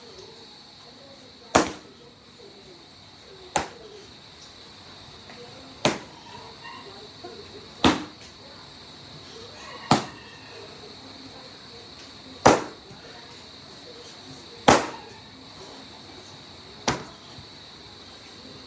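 Karate strikes landing on a striking target, with eight sharp slaps or thuds about every two seconds.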